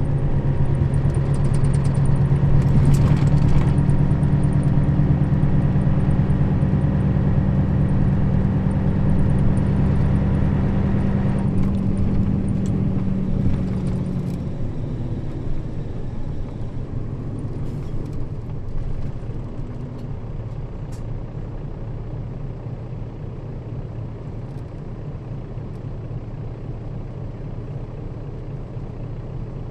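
Nissan Diesel KL-RA552RBN bus's diesel engine running under load as the bus drives, a steady drone. Around halfway through the engine note fades and the sound drops to a quieter rolling rumble, as the engine eases off.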